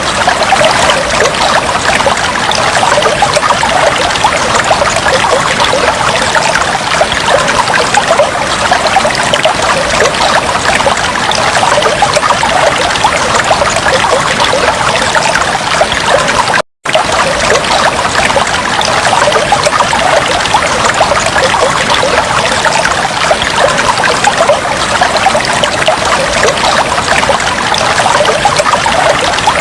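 Aquarium water trickling and bubbling steadily in a dense, even patter, cutting out for an instant a little over halfway through.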